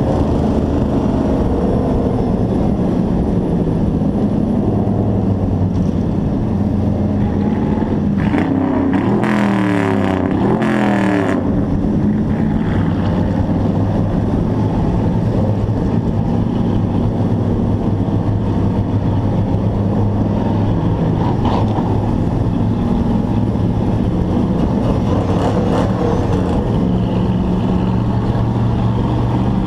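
Racing hobby truck's engine running hard on track, heard from an onboard camera, its pitch rising and falling slightly as it laps. Between about nine and eleven seconds in, a brief stretch of crossing pitch sweeps and added hiss cuts across it.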